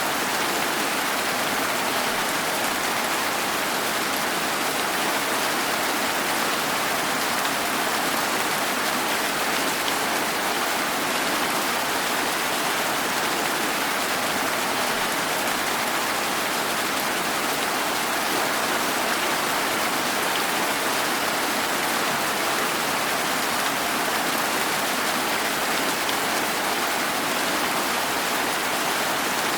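Steady rain, an even unbroken hiss with no single drops or thunder standing out.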